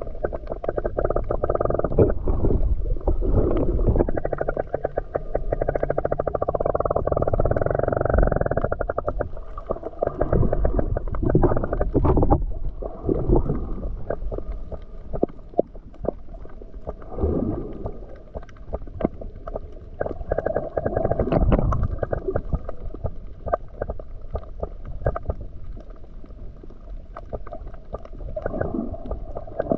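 Muffled underwater sound from a camera held in the sea: water sloshing and gurgling with bubbles, irregular clicks and knocks, and swells of louder noise.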